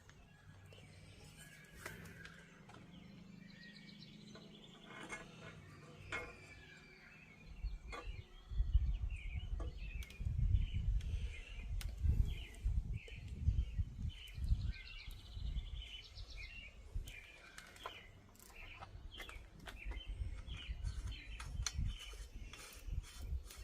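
Small birds chirping repeatedly in the background. From about 8 seconds in, irregular low rumbling thumps from an unidentified source are louder.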